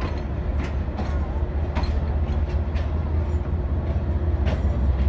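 Freight train of railway tank wagons rolling past, a steady low rumble with irregular sharp clanks and clicks from the wagons.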